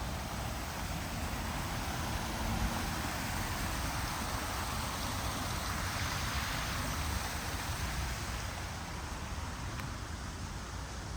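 Steady rushing of a small stream's running water, swelling a little around the middle, with a low rumble underneath.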